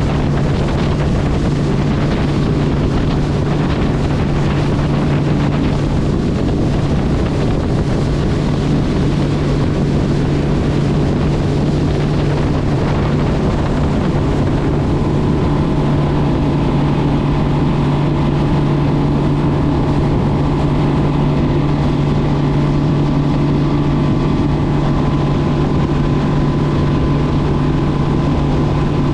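A motor running steadily with a constant low hum, with wind noise on the microphone. About halfway through, a few higher steady tones join in.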